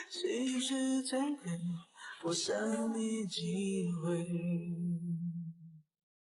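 Background song with a singing voice: a sung phrase ending in a long held note, then the music cuts off suddenly just before the end.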